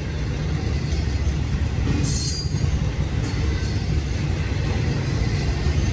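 Intermodal freight trains rolling past close by, their wheels on the rails making a steady low rumble. A brief high-pitched wheel squeal comes about two seconds in, and a shorter one follows about a second later.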